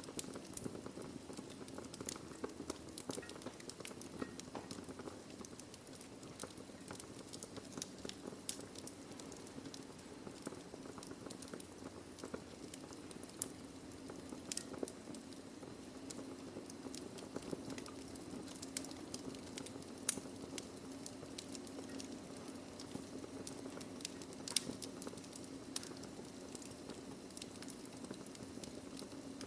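Wood fire burning in a fireplace: irregular crackling and small pops over a steady low rush of flame, with one sharper pop about two-thirds of the way through.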